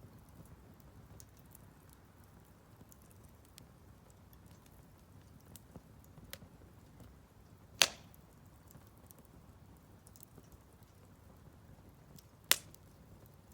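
Firewood burning in a Solo Stove Campfire fire pit: faint crackling over a low steady rumble, with two sharp loud pops, one past the middle and one near the end.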